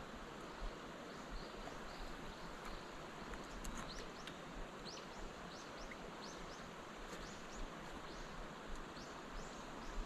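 Quiet outdoor stream-side ambience: a steady background hiss with many short, high, rising chirps from a bird, coming thickest from about three and a half seconds in. Soft low bumps sound now and then underneath.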